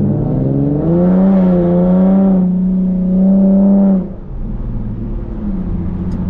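Infiniti G37 coupe's VQ37 V6 through a full titanium Tomei exhaust, pulling loudly at a fairly steady pitch, then dropping away suddenly about four seconds in to a quieter exhaust drone.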